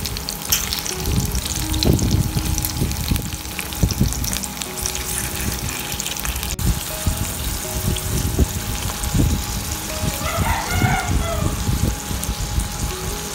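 Okra frying in hot oil in a pan: a steady sizzle, with the pieces turned by tongs. Background music runs underneath.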